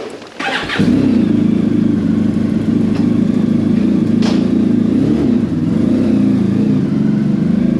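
Honda VFR1200F V4 engine starting cold just under a second in and then idling steadily through a Coffman Shorty slip-on exhaust.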